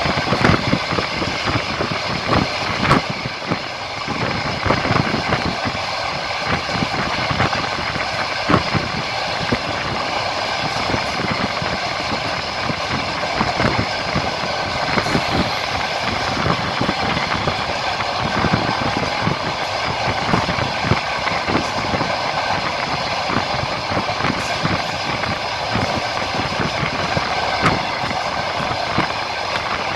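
Train running at speed, heard from a carriage window: a steady rumble with frequent knocks of the wheels over the rail joints.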